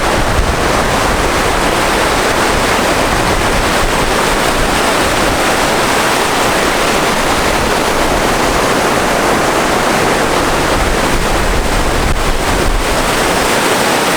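Steady rushing of sea surf, with wind buffeting the microphone.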